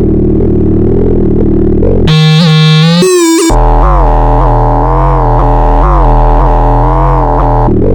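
Arturia Buchla Easel synthesizer holding a low, sustained drone whose overtones waver. About two seconds in it switches to a brighter, higher tone that bends in pitch, then drops back to the low drone about a second and a half later.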